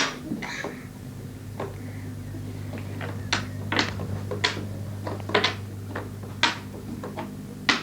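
Jigsaw puzzle pieces being knocked and fitted into the puzzle board by a toddler: sharp, separate clicks and knocks at irregular intervals, more of them in the second half.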